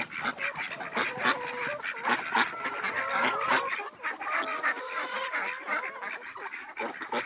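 A mixed poultry flock of ducks, chickens and turkeys calling all at once, many short overlapping calls, as the birds are let out of their night coop.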